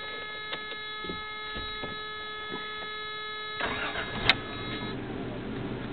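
A steady high electronic-sounding tone, then a freshly rebuilt Toyota 3VZ-E 3.0-litre V6 cranks from about three and a half seconds in, with a sharp click, and catches about a second later to run at a steady idle. The tone stops as the engine fires.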